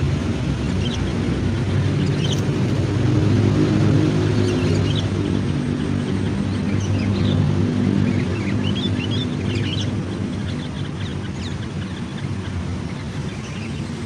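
Small birds chirping in short, scattered high calls, busiest in the middle stretch, over a steady low engine drone.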